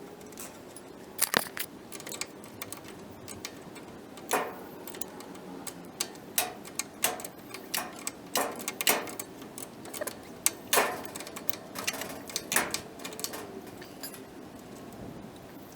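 Irregular sharp clicks, taps and clacks of hard tools and parts being handled, about twenty in all and spaced unevenly, with the loudest around a second in and again near the middle.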